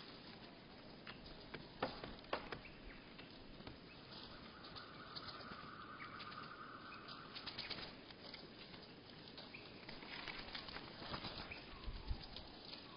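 Birds at a seed feeder slowed to one-third speed: scattered clicks and taps from the birds at the feeder, with a steady held tone lasting about three seconds in the middle.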